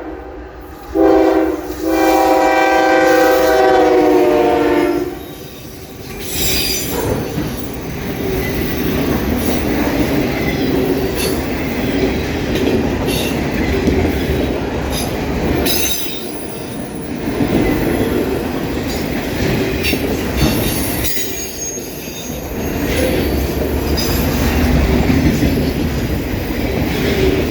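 A CSX GE ES44AH diesel locomotive's five-chime K5HA air horn sounds a chord, a short blast about a second in and then a long blast ending about five seconds in, closing a grade-crossing signal. The train then rolls past with steady rumbling and wheels clicking and squealing on the rails.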